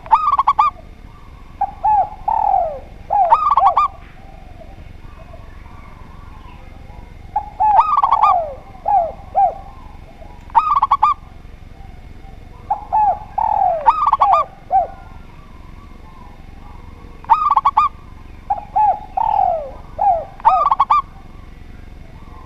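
Spotted dove and zebra dove cooing in repeated phrases, a few seconds apart: short trilled notes mixed with longer coos that fall in pitch.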